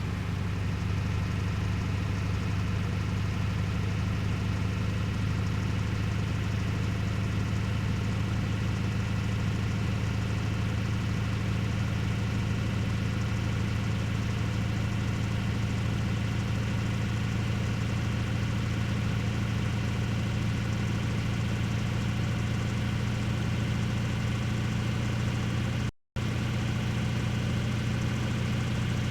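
A steady low mechanical hum, like a motor running at a constant speed, with no change in pitch or level; it drops out for an instant near the end.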